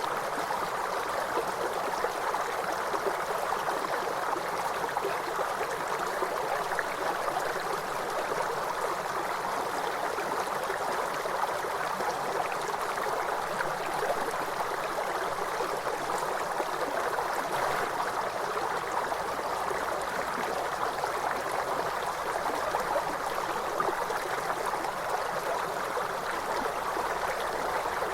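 River water flowing: a steady, even rush of running water that holds unchanged throughout.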